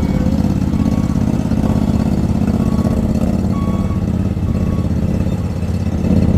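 Engine of a Conolift self-propelled boat trailer running steadily while it moves the boat, with short faint beeps every second or so from its warning alarm. The engine gets louder about six seconds in.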